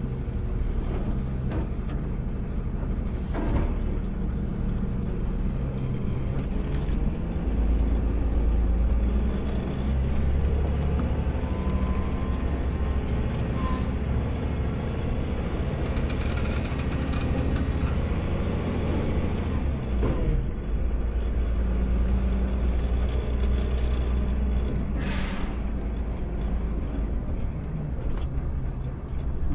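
Automated sideload garbage truck's engine running with a steady low rumble that swells for two long stretches. Near the end comes one short, sharp air-brake hiss.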